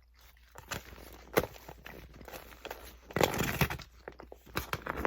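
Close-up eating sounds: crunching and chewing of food with scattered sharp clicks, and a louder, noisier stretch about three seconds in.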